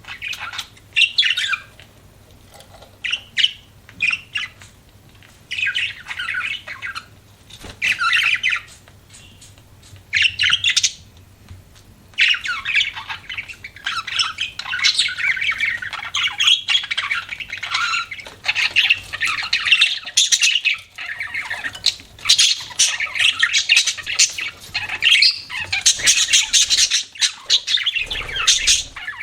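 Pet budgerigars chirping and chattering. Short bouts of chatter with gaps between them, then about twelve seconds in a nearly unbroken run of chatter takes over.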